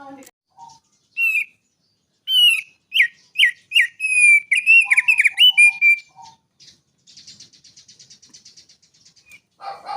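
Prenjak gunung (hill prinia) singing a varied mimicking song. First comes a loud run of clear whistled notes that bend up and down, then a faint, fast, buzzy trill near the end.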